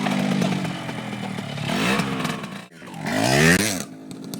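Dirt bike engine running near idle, revved briefly about two seconds in, then revved harder a second later before dropping back to idle.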